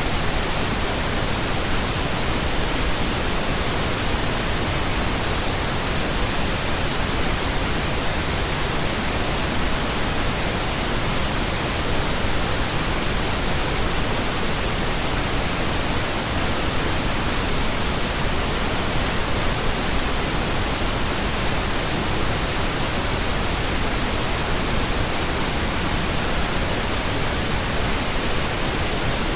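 Steady pink noise: an even, unchanging hiss spread across all pitches, with no rhythm or events.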